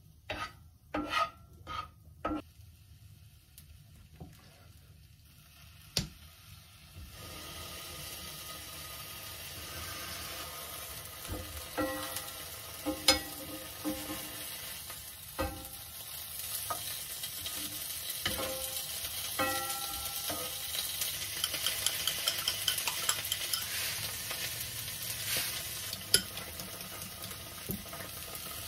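Green onions and fried tofu sizzling in a frying pan over a gas flame, with a wooden spatula tapping and scraping the pan. A few knocks come first, then the sizzle starts about a quarter of the way in and grows steadily, with scattered taps through it.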